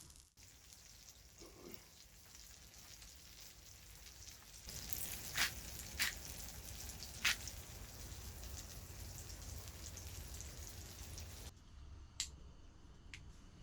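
Steady sizzling hiss with three sharp pops about halfway through. Near the end it cuts abruptly to a quieter background with a couple of light clicks.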